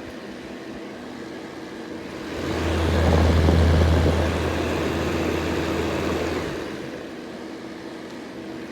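Upright electric fan heater running in cool mode (fan only, no heat), a steady hum with a faint whine. About two seconds in, a low rushing rumble swells up, peaks, and fades away again over about four seconds.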